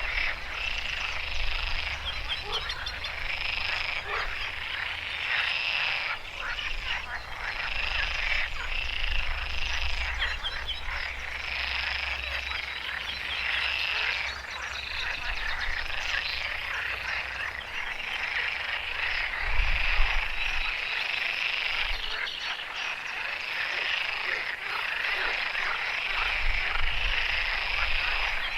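A chorus of many frogs calling together in a wetland, a continuous dense croaking with pulsing calls, under a low rumble that comes and goes.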